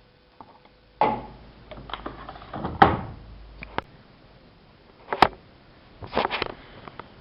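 AEG Lavamat 5210 front-loading washing machine giving irregular knocks, clacks and short swishes a second or two apart, with no steady motor or water hiss under them.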